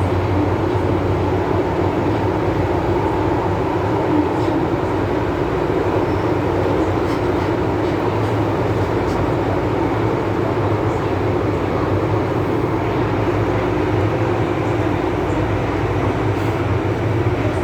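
MTR M-Train electric metro train running steadily between stations, heard from aboard: an even rumble and hum with no change in speed.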